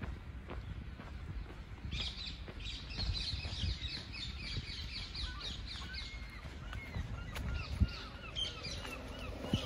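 A small bird singing a fast run of short, high, repeated notes from about two seconds in, then scattered chirps. Underneath is a low rumble with irregular thuds, one sharper knock near the end.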